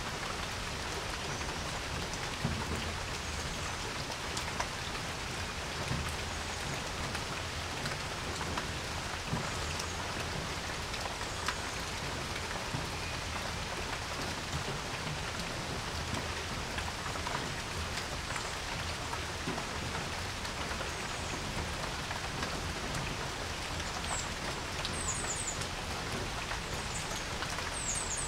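Steady rain falling on a porch: an even hiss with scattered sharper drips landing close by. A few faint high chirps come through near the end.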